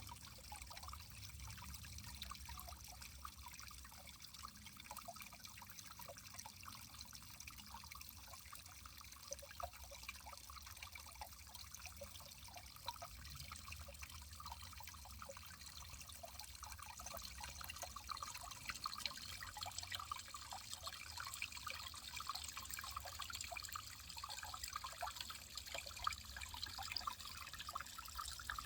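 Water trickling steadily, with a dense patter of small splashes and drips, slightly fuller in the second half.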